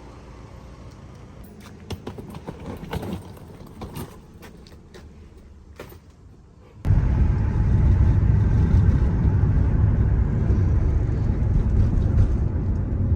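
Quiet background with a few scattered knocks and clicks, then, about seven seconds in, a sudden cut to the loud, steady low rumble of a moving road vehicle.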